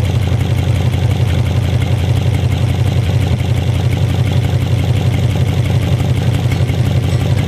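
1952 Studebaker V8 in a Ford Model A hot rod idling steadily, a loud, even low rumble with no revving.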